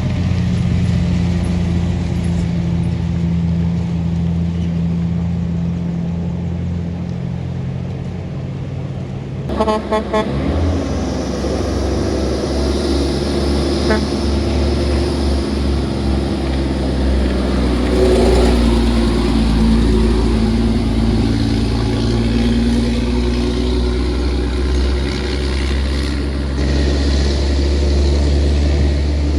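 Heavy truck engines working up a steep hill under load. A quick run of horn toots sounds about ten seconds in, and a louder engine builds through the second half.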